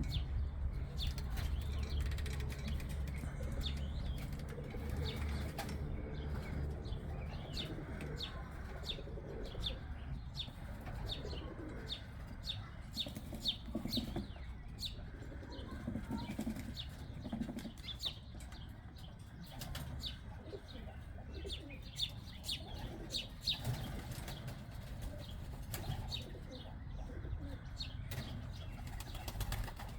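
Pigeons flapping their wings, a stream of short, sharp wing claps and flutters, with some cooing and chirping among the birds.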